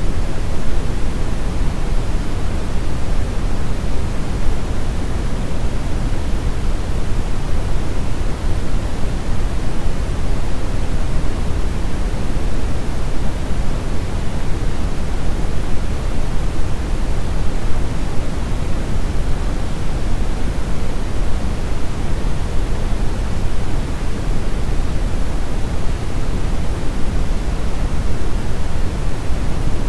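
Steady, unchanging brown noise: an even rushing hiss weighted heavily to the low end, with no events or rhythm.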